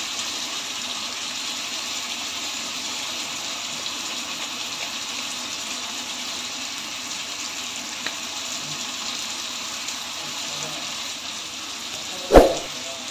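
Tomatoes and onions sizzling steadily in oil in a metal pot. Near the end a spoon clanks once against the pot.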